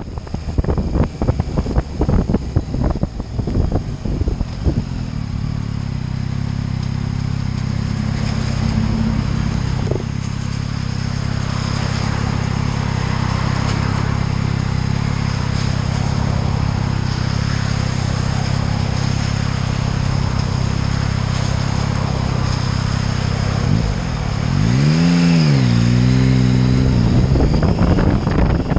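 Motorcycle engine running steadily at road speed, with gusty wind buffeting on the microphone for the first few seconds. Near the end the engine note drops and then climbs again as the rider eases off and accelerates.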